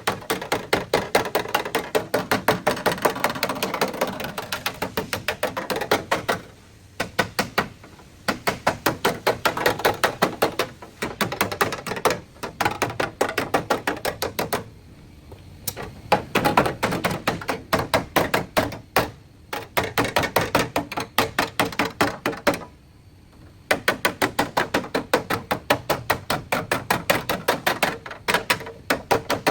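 Rapid hammer blows on car-body sheet metal, several a second, in long runs with three short pauses. This is typical of panel beating on a crash-damaged body.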